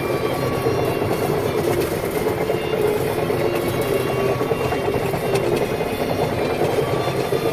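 Heavy machinery engine running steadily, a continuous drone with no change in speed.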